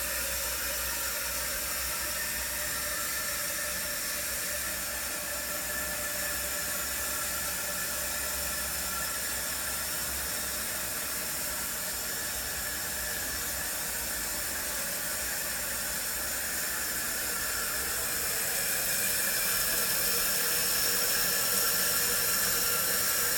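Toilet tank refilling through a newly replaced fill valve: a steady hiss of water running into the tank, growing a little louder in the last few seconds.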